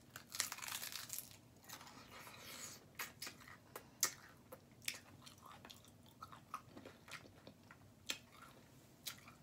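A person chewing a taco close to the microphone, with scattered sharp mouth clicks.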